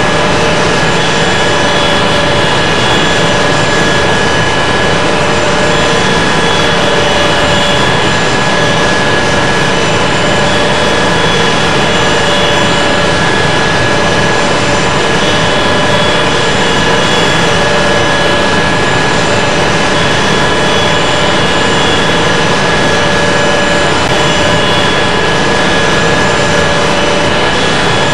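Airbus A380's four turbofan jet engines running steadily, heard from inside the cabin: a loud even rush with a steady high whine on top.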